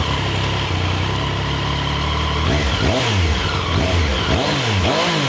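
Triumph Street Triple RS's 765 cc three-cylinder engine idling steadily just after being started. About two and a half seconds in, the throttle is blipped about four times in quick succession, each rev rising and falling back toward idle.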